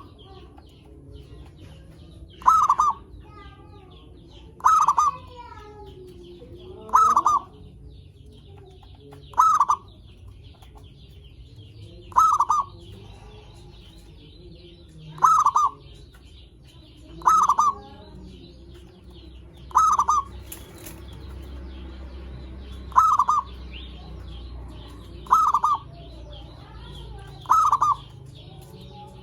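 Zebra dove (perkutut) cooing: a short burst of quick notes repeated about every two and a half seconds, over a faint steady high chirring.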